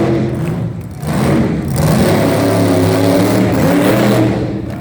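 Monster truck engine revving loudly: it drops back about a second in, then climbs in pitch and holds at high revs.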